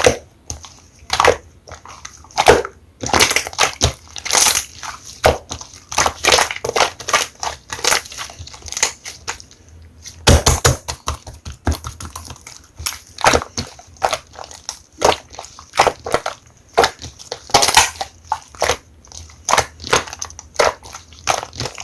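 Slime being squeezed and poked by hand, making irregular clicks and crackling pops several times a second, with a dense run of pops about halfway through.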